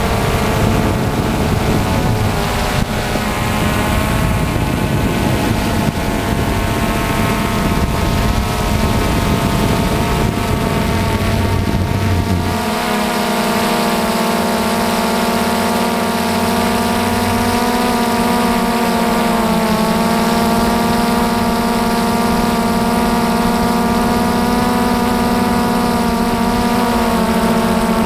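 DJI Phantom FC40 quadcopter's motors and propellers humming steadily, heard close up. A low rumble under the hum drops away about twelve seconds in.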